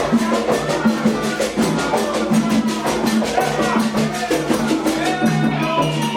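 Candomblé ritual music: hand drums and other percussion keep up a fast, steady beat while voices sing a chant over them.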